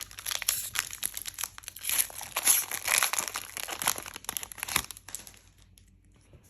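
Foil booster-pack wrapper crinkling and crumpling in the hands, a dense run of crackles that stops about five seconds in.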